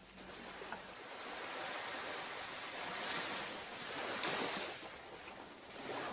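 Ocean surf washing onto a beach: a steady rush of noise that swells as waves break, loudest about three to four seconds in and again near the end.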